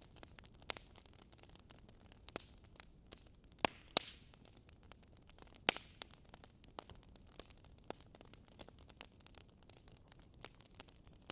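Burning firewood crackling: irregular small pops and snaps over a low steady hiss, with a few louder pops near the middle.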